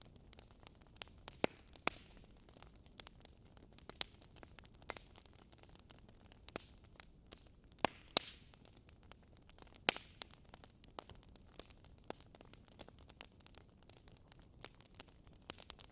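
Wood fire crackling in a fireplace: irregular sharp pops and snaps over a soft steady hiss, the loudest pops about eight and ten seconds in.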